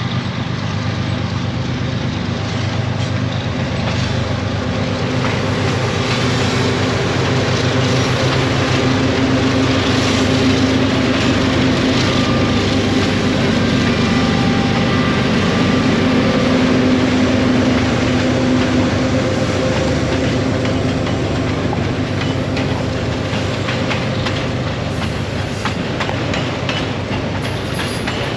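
Train rolling past: a steady loud rumble with short clicks of the wheels over the rail joints.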